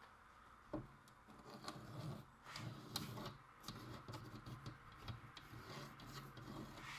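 Pencil scratching over plywood in short, uneven strokes as it is traced around a plastic rivet ring, with a light knock about a second in.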